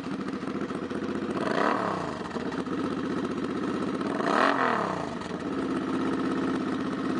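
2007 Suzuki Boulevard C50's 805cc V-twin with a Vance & Hines straight-pipe exhaust, running and blipped twice, the revs rising and falling back each time, before settling to an idle near the end.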